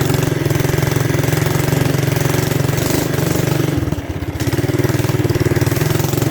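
Mini bike's small engine running steadily, dipping briefly about four seconds in and then settling back to the same steady note.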